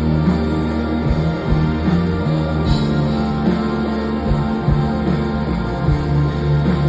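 Live rock band music: sustained guitar and bass notes over a drum beat, with no singing at this point.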